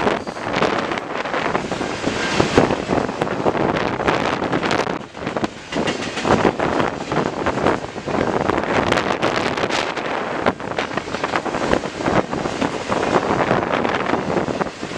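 Double-stack intermodal freight cars rolling past, with a continuous rumble of steel wheels on rail and irregular clanks and clatter from the cars. Wind buffets the microphone throughout.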